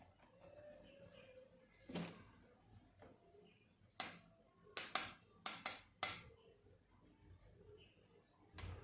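Light, sharp taps and clicks from watercolour painting tools being handled, about eight in all, with a quick cluster in the middle, over faint room tone.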